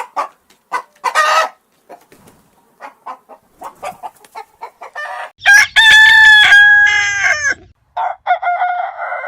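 Chicken clucking in short calls, then a rooster crowing loudly about halfway through, with a second crow starting near the end.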